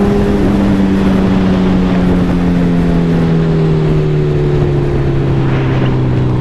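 Suzuki Hayabusa's inline-four engine pulling in gear, its pitch falling slowly and steadily as the bike eases off, under a loud rush of wind noise.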